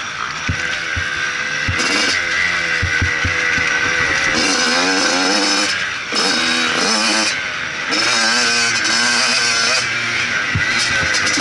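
Motocross motorcycle engine revving hard, its pitch climbing and falling again and again as the throttle is worked, with short let-offs about six and eight seconds in.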